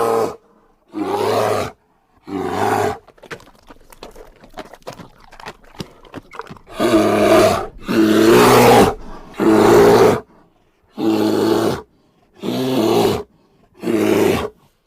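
Bear roaring in a series of short, loud, deep calls of under a second each. The calls come about one to one and a half seconds apart, with a quieter stretch of faint clicks and breaths in the middle.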